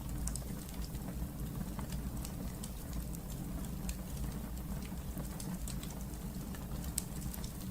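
Fire burning in a fireplace: a steady low rumble of flames with small crackles and pops scattered irregularly, and one sharper pop near the end.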